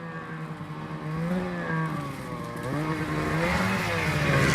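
Snowmobile engine revving up and down several times, getting louder toward the end.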